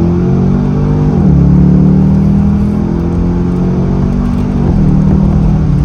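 Chevrolet Camaro SS V8 accelerating hard on a pull. Its pitch climbs through the gears, with a quick upshift about a second in and another near the end.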